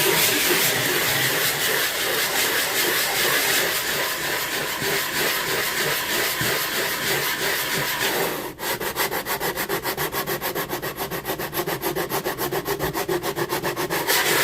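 Coarse sanding of a wooden chopping-block countertop, a steady gritty abrasion. After a brief break about halfway through, it turns to a quick, even pulsing.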